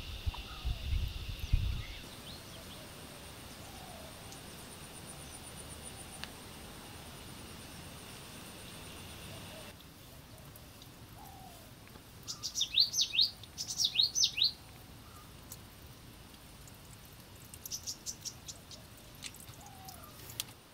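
Wind buffeting the microphone for the first two seconds, then a steady high insect trill. About twelve seconds in, a bird gives two quick series of sharp, descending whistled notes, the loudest sound here, and a fainter series of high calls follows near the end.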